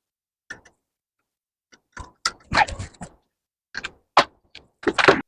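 Bolts and hand tools clinking and knocking against metal while bolts are fitted to a minibike's rear sprocket: a string of short, sharp clicks and knocks at irregular intervals, loudest just over four seconds in.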